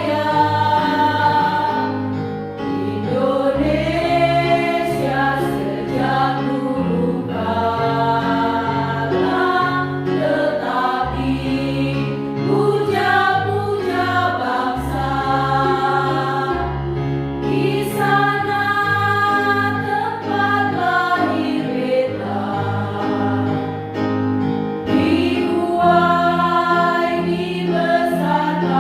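A choir singing a song in parts, several voices holding and changing notes over steady low accompaniment.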